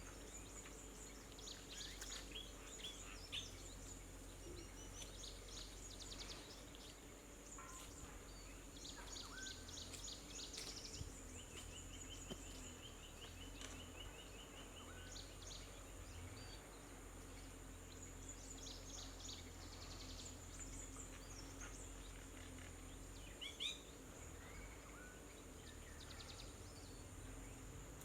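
Small birds chirping and twittering faintly, with scattered short high calls and a rapid run of repeated notes about halfway through. A steady high-pitched whine runs underneath.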